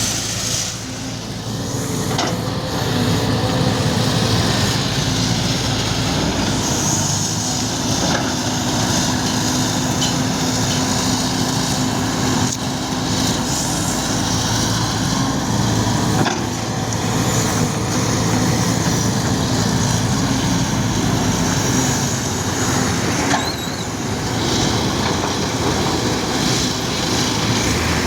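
Bulldozer's diesel engine running steadily under work, with a few sharp knocks along the way.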